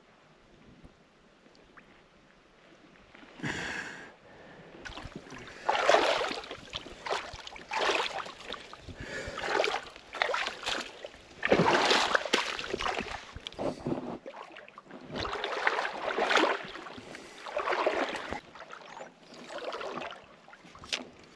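Legs wading through deep creek water: a rushing splash with each stride, about one every one and a half to two seconds, starting a few seconds in.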